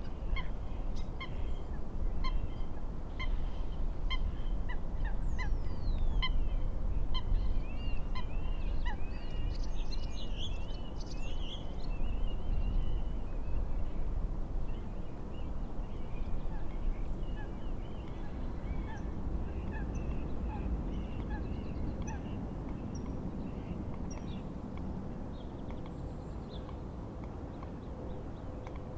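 Birds calling: a run of short, evenly repeated calls roughly every half second, and a tangle of overlapping warbling calls around ten to thirteen seconds in, thinning out in the last third. Underneath runs a steady low rush of wind and waves.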